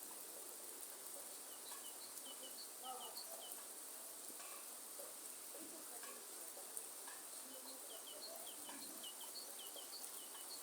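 Steady rain hiss in a forest, with a bird giving runs of short, high, repeated chirps, one run about two seconds in and another in the second half.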